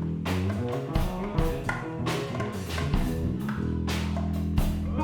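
Band playing instrumental music: drum kit keeping a steady beat, with bass and electric guitar.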